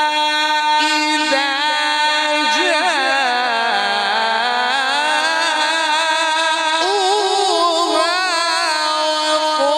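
A man's voice reciting the Quran unaccompanied in the melodic mujawwad style, drawing out one long ornamented melodic line with rapid trills. The pitch sinks about three seconds in and climbs back up.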